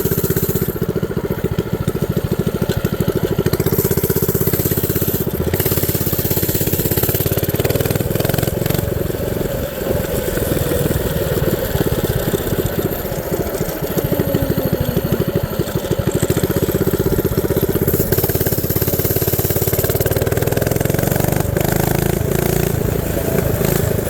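Mini bike's Predator 212cc single-cylinder engine running continuously, its pitch rising and falling a little with the throttle.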